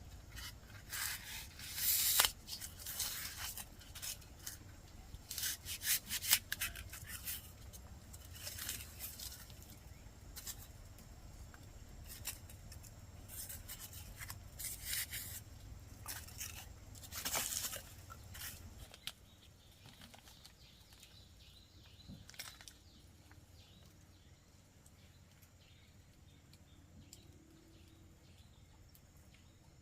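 Irregular scraping and rubbing strokes by hand, in clusters for the first two-thirds, then fading to a quiet background.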